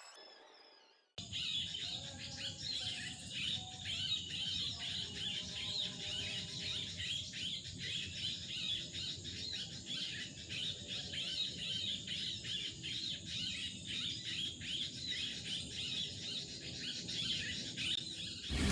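Birds chirping in rapid, overlapping calls over a steady high-pitched hiss, starting abruptly about a second in.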